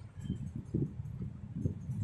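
Soft, irregular low knocks and scrapes, several a second, from working cream onto a cake with a palette knife while applying the crumb coat.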